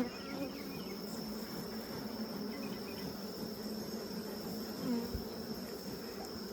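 Steady buzzing of a colony of honey bees in an opened hive, the bees stirred up and defensive. A steady high insect trill sounds along with it, and there is one soft thump about five seconds in.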